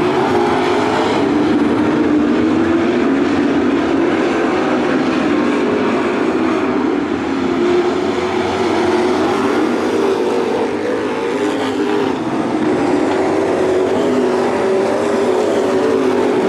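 Dirt-track race trucks running at racing speed around the oval: a steady, loud engine drone whose pitch wavers as the trucks lift and get back on the throttle.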